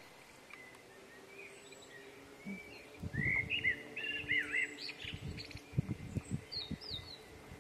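A small bird calling with a few short chirps that rise and fall in pitch, over faint open-air background. From about three seconds in, low knocks and rustles close to the microphone join in.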